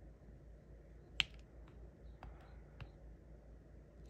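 Diamond painting pen tapping resin drills onto the canvas: about six small, sharp clicks at irregular spacing, the loudest about a second in.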